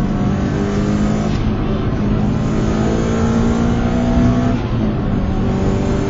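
Tuned Subaru WRX STI's turbocharged flat-four under hard acceleration, heard from inside the cabin. The revs climb steadily for about four and a half seconds, then drop briefly before pulling again.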